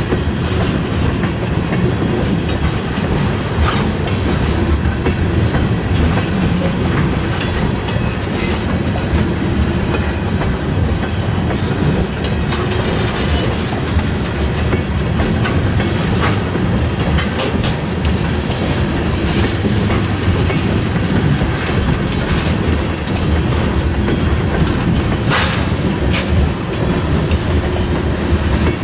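Freight cars rolling during a switching shove: a steady rumble of steel wheels clicking over rail joints, with a few sharp squeaks or clanks scattered through it.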